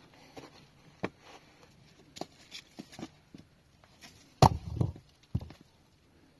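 Scattered sharp knocks and clicks, like objects being set down or struck during manual work, with a cluster of heavier thuds about four and a half seconds in and one more a second later.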